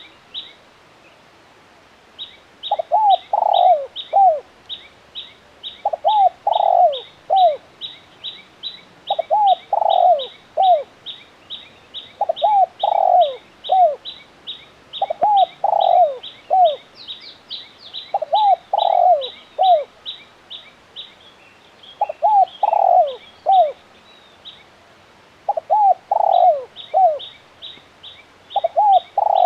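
Spotted dove singing: a phrase of several low coos, repeated about every three seconds. A small bird chirps quickly and steadily, higher up, behind it.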